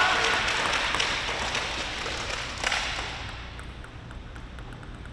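Arena crowd applause dying away over about three seconds, with a single sharp knock near the end of it.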